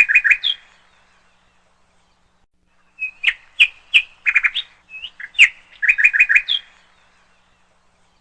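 Songbird chirping and whistling in quick phrases, stopping about half a second in and starting again after a gap of about two and a half seconds; the second burst repeats the same phrase note for note, like a looped recording.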